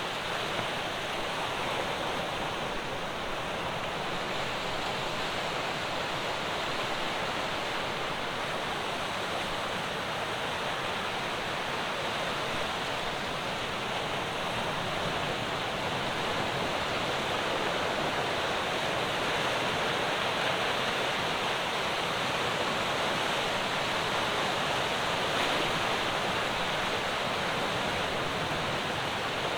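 Ocean surf breaking on a rocky shore, a continuous wash of waves with a slight rise in level towards the end.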